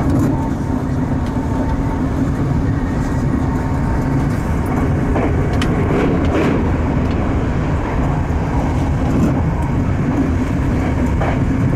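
Electric commuter train running on rails, heard inside the cab: a steady low rumble with a constant hum and a few short clicks from the wheels over the track.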